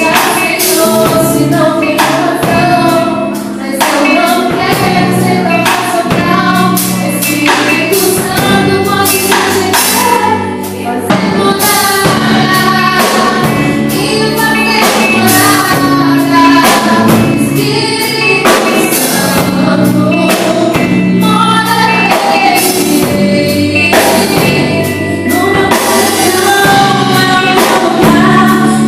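Two female vocalists singing a Portuguese-language gospel song over an accompaniment with steady percussion.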